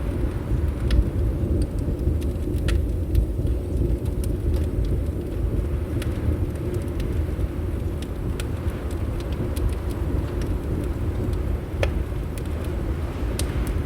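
Wood fire crackling, with sparse sharp pops every second or few, over a steady low rumble of wind.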